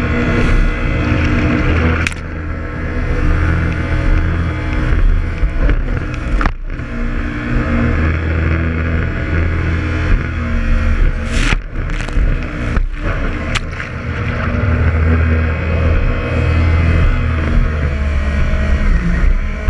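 Jet ski engine running on the water, its pitch shifting up and down with the throttle, broken by a few brief drop-outs.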